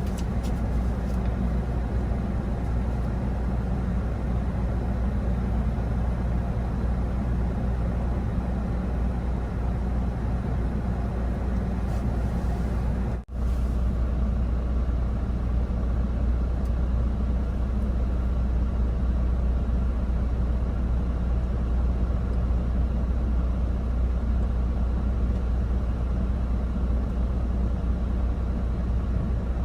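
Steady low rumble of a truck driving on the road, with engine and road noise. There is a momentary dropout about 13 seconds in.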